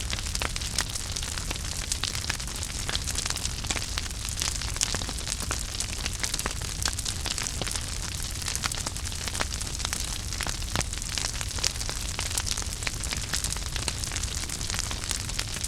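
Wood fire in a fireplace crackling steadily, with frequent sharp pops over a soft hiss and low rumble of burning logs.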